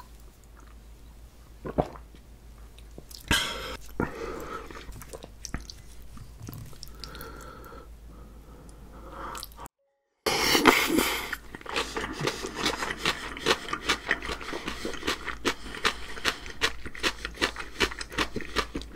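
Close-miked eating. First a shot of soju is drunk, with a few short clicks and mouth sounds. After a brief break, noodles are slurped loudly and then chewed with rapid, wet smacking clicks, several a second.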